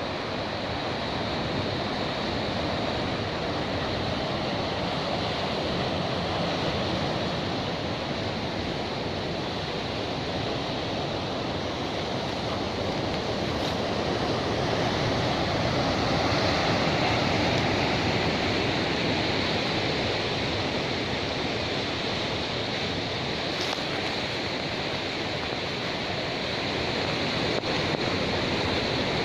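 Steady rush of sea surf breaking on a beach, swelling slowly in loudness.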